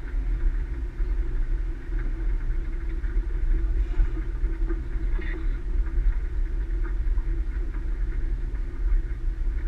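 A steady low mechanical hum, like an engine idling, even throughout.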